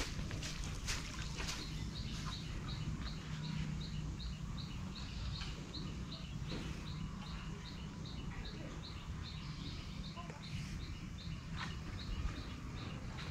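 A bird calling with a short, high chirp repeated evenly about three times a second, over a steady low outdoor rumble.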